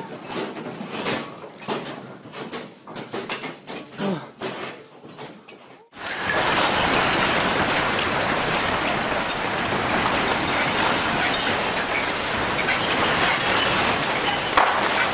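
Office fittings and objects rattling and clattering in quick, uneven knocks as an earthquake shakes the room. About six seconds in this cuts off suddenly, and a loud, steady rushing noise takes over.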